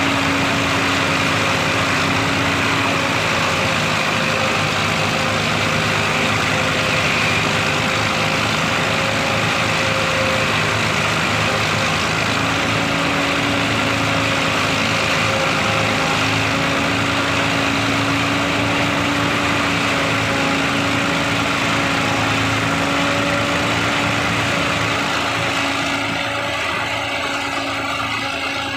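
A heavy engine running steadily at constant speed: a continuous hum with a few steady tones over a noisy haze, easing off slightly near the end.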